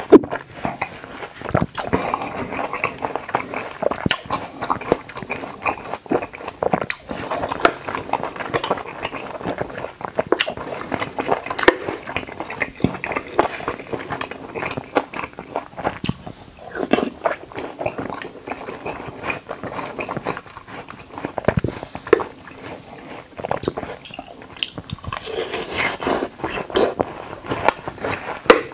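Close-miked eating of watermelon chunks and konjac jelly: wet chewing, squishing and slurping with a light crunch, broken by frequent sharp clicks.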